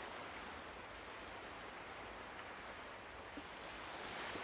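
Faint ocean waves washing on a shore: a steady, soft surf noise that swells slightly near the end.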